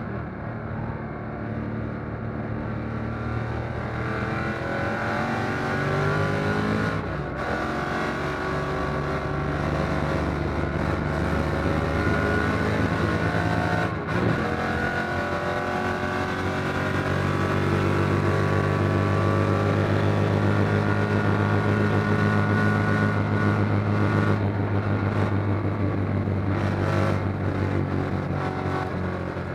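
Fuel-injected V8 of a 1957 Corvette race car under load, heard from inside the cockpit: the engine note climbs in pitch, breaks off briefly about seven and fourteen seconds in, then holds a loud steady note before easing near the end.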